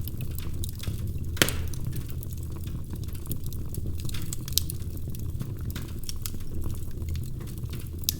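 Wood fire crackling, with scattered pops and ticks over a steady low rumble; one sharper pop about a second and a half in and another a few seconds later.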